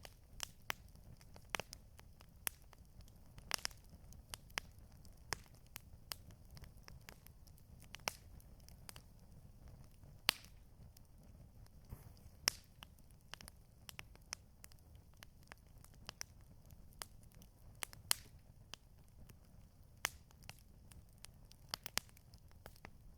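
Wood campfire crackling: irregular sharp pops and snaps over a faint low rumble.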